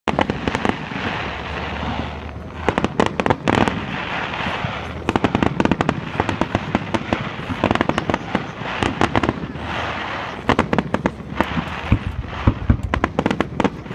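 Fireworks finale: dense clusters of sharp bangs and crackles going off in quick succession, with a hiss between the bursts.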